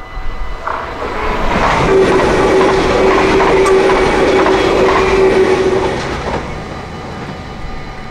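NS Sprinter electric passenger train passing over a level crossing. The rumble of wheels on the rails builds about a second in and stays loud for several seconds with a steady whine, then fades away near the end.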